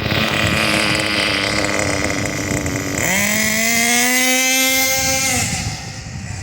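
O.S. CVR .18 two-stroke nitro engine of a radio-controlled car running, then revving up sharply about three seconds in, holding the high pitch for about two seconds and dropping off near the end.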